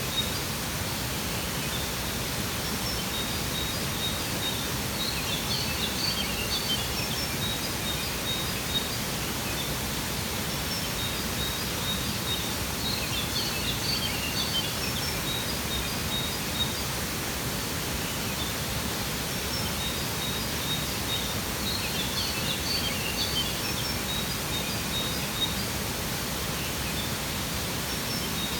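Steady rush of a waterfall, with birds chirping in short high flurries over it three times.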